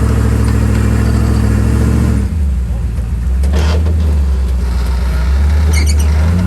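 Engine of a big-tyred off-road rock-crawling truck running steadily under load, its note dropping about two seconds in and then holding.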